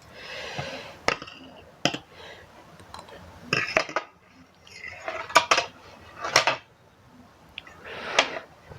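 Metal fork and spoon clinking and scraping against a bowl of instant noodles, several separate sharp clinks with softer scraping between them.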